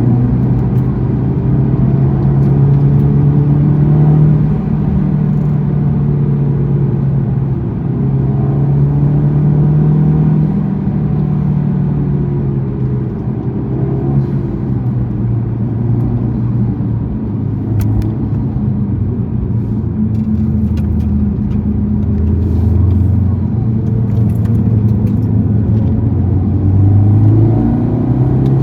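Honda Civic Type R FL5's turbocharged 2.0-litre four-cylinder engine through a Mugen exhaust, driven at pace on a lap: the engine note rises under acceleration and drops back when the driver lifts and shifts, several times over.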